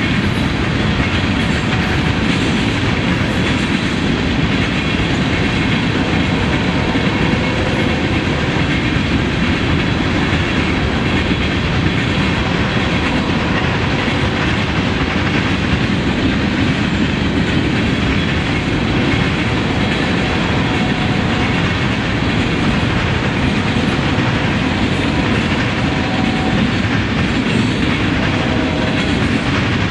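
A long freight train's cars rolling past steadily on the rails.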